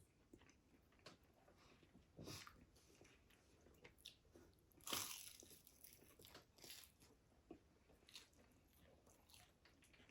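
Faint crunching and chewing of crispy fried food, in irregular bites, with the loudest crunch about five seconds in.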